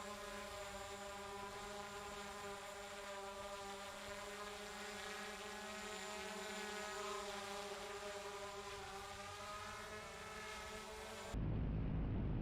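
Small propeller airplane's engine droning steadily, its pitch shifting slightly midway. About a second before the end it cuts abruptly to a louder low rumble of wind.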